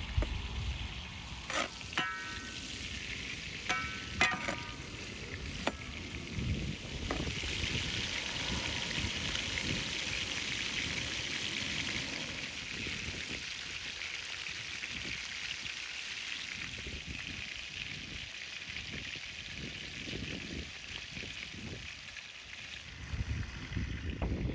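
Lamb pieces frying in a large metal pan over a wood fire, a steady sizzle of bubbling fat. In the first few seconds a metal utensil knocks against the pan several times with a short metallic ring.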